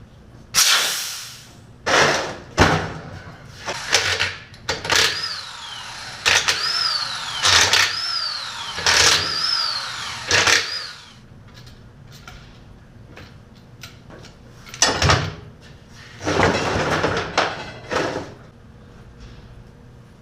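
Workshop handling noise around a small-block Chevy engine block: a string of short hissing bursts and knocks, with a run of about five high squeaks midway.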